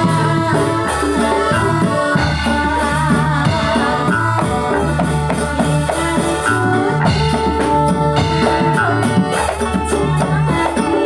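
Ndolalak folk dance music: drums and rattling percussion keep a steady beat under sustained held melody notes and low bass.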